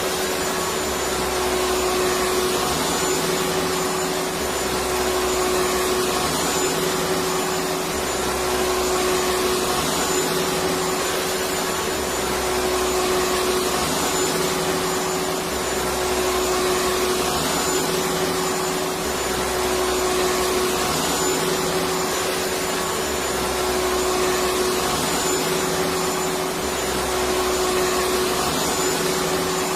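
Electric vacuum cleaner running continuously: a steady rush of air with a constant motor whine, and a low hum that swells and fades about every three and a half seconds.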